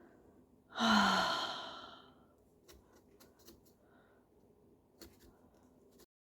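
A woman's long sigh about a second in, opening with a brief voiced note that drops in pitch and trailing off as a breathy exhale, followed by a few faint clicks and taps. The sound cuts off abruptly near the end.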